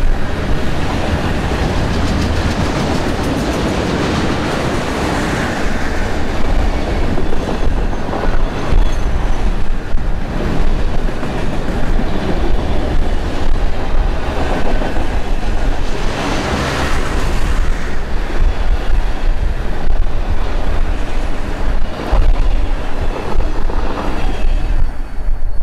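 Long freight train's cars rolling past, a continuous rumble of steel wheels with irregular clacking over rail joints.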